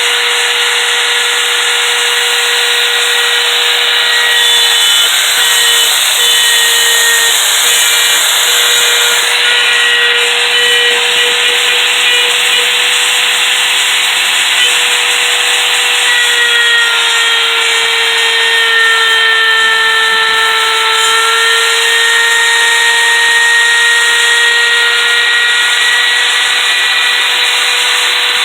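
CNC router spindle running and cutting: a loud steady whine of several tones over a rushing hiss. The pitch sags slightly now and then as the cut loads it.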